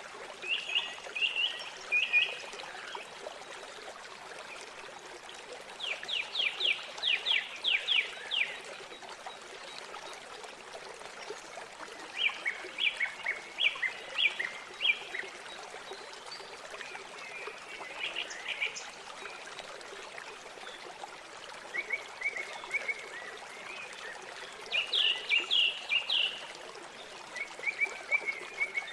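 River water flowing steadily, with a songbird singing short phrases of quick, high notes every few seconds over it.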